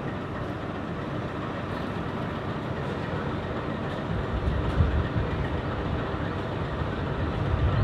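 Steady rumble and rush of noise from The Ghan passenger train at the platform, with no clear rhythm; it grows somewhat louder from about halfway through.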